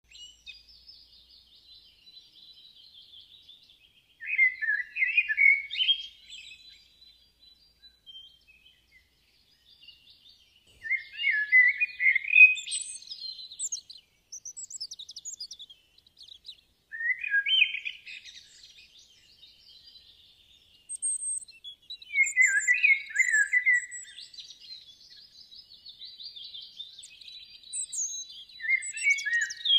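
Small birds chirping and singing: loud twittering phrases every five or six seconds, with softer high trilling between them.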